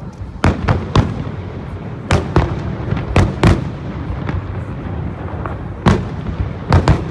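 Fireworks shells bursting overhead: about nine sharp bangs at uneven intervals, several coming in quick pairs, over a steady background rumble.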